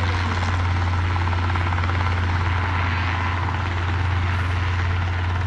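Helicopter rotor and engine running, a steady loud drone with a strong low hum.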